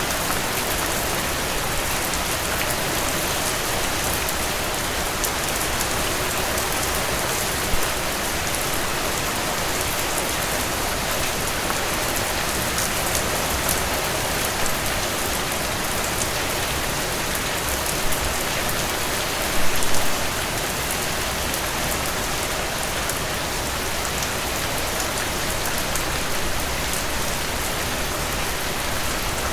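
Heavy rain falling steadily in a dense, even downpour. A few brief louder knocks stand out, the strongest about two-thirds of the way through.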